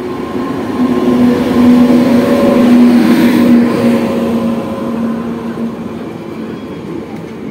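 Indian Railways electric locomotive and its ICF passenger coaches rolling past into the platform: a steady hum over a rumble of wheels, loudest as the locomotive goes by about two to four seconds in, then easing as the coaches follow.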